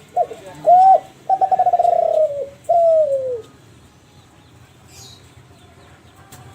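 A Kelantan derkuku (spotted dove) cooing one song phrase. A short opening note is followed by a rising-and-falling coo, a long rolling coo, and a last coo that falls in pitch.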